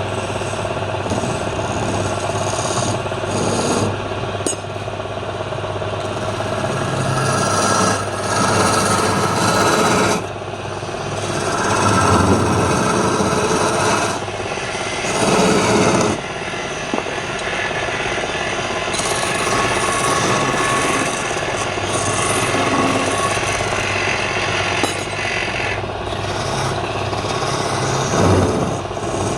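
Wood lathe running with a steady motor hum while the spinning palm wood is worked, a continuous rasping that swells and eases every few seconds.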